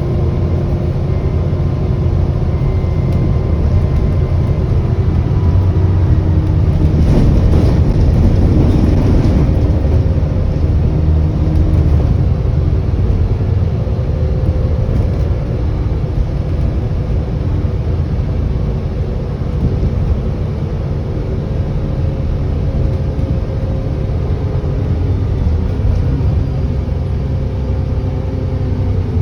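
ADL Enviro400 double-decker bus's diesel engine running under way, heard from on board, with small changes in engine pitch. A faint high turbo whine sounds over it for the first few seconds. There is a louder rush of noise about seven to ten seconds in.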